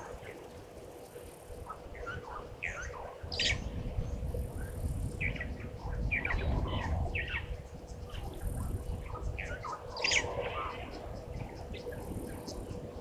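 Wild birds chirping and calling, many short calls scattered throughout, over a low rumble and a faint steady hum.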